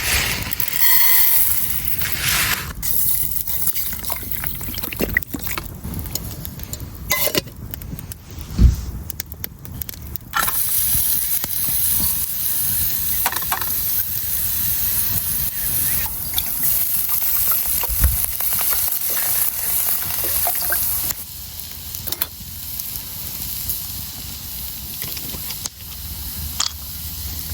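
Food sizzling in a pan over a campfire, louder for a stretch in the middle and easing off later, with scattered clicks and knocks of cooking utensils.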